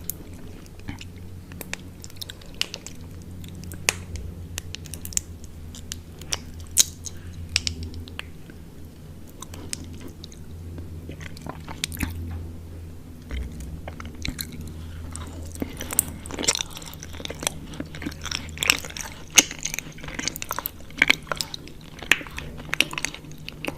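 A person chewing honeycomb close to the microphone, with scattered sharp clicks and crackles of wax and honey that get busier and louder about two-thirds of the way through, over a steady low hum.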